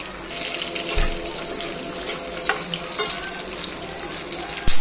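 Sliced onions, garlic, green chillies and cashews sizzling in hot oil in a stainless steel kadai, with a metal spatula knocking and scraping against the pan about five times, the loudest knock near the end.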